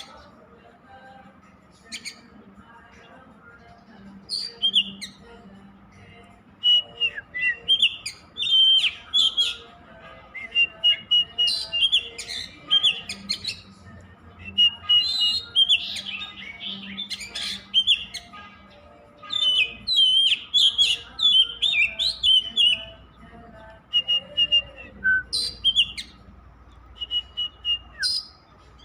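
Oriental magpie-robin (kacer) singing: quick phrases of varied whistles, chirps and trills, one after another with only short pauses between them.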